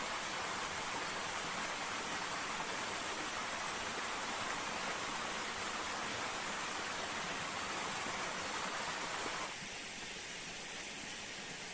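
Steady rushing of a jungle waterfall, an even noise with no distinct events. About nine and a half seconds in it drops suddenly to a lower, duller level.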